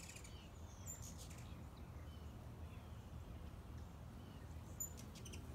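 Faint, scattered high chirps of small birds over a low steady hum, with a few brief clicks about five seconds in.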